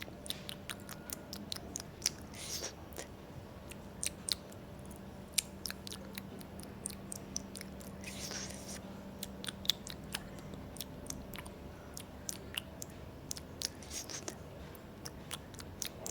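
Close-up chewing of sushi: irregular wet mouth clicks and smacks, several a second, over a faint steady hum.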